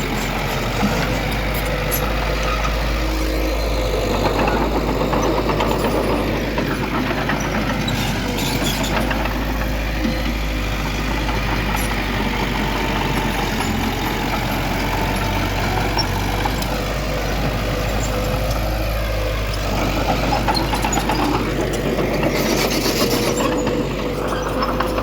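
Heavy diesel earthmoving machinery running steadily with a low rumble, with a short burst of hiss near the end.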